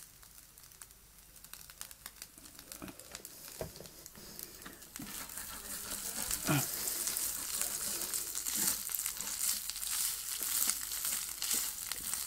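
Chicken mince frying in a pan. It crackles faintly at first, then sizzles louder from about halfway through, as fresh cooking oil goes in.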